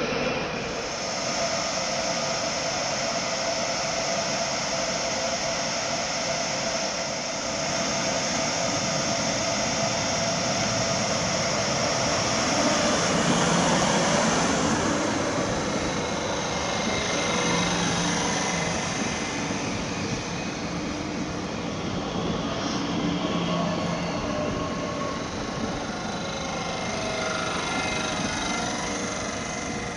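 Electric trains in a station: a steady high squeal at first, fading out around halfway, then a Bombardier Talent 2 electric multiple unit running close past with a shifting electric motor whine and rail noise.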